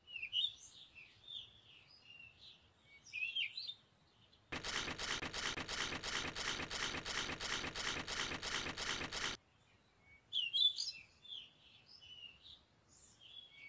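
Small birds chirping in short, varied calls, in two spells. Between the spells, for about five seconds, a rhythmic rasping noise of about four strokes a second.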